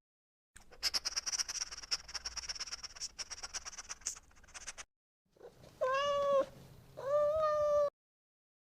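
Domestic cat meowing twice, the second meow longer, after several seconds of a scratchy, crackling noise.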